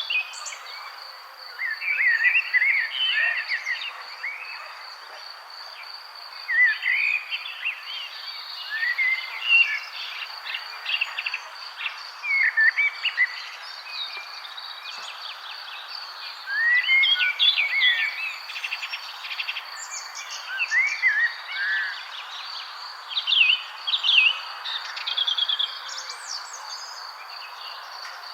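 Several songbirds singing short, repeated warbling and chirping phrases, one after another, over a steady high pulsed trill and a soft background hiss.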